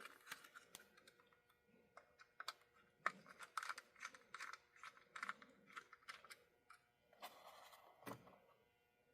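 Faint, irregular clicks and light scraping of small plastic model locomotive parts being handled and fitted together by hand, busiest midway, with a brief scrape and a click near the end.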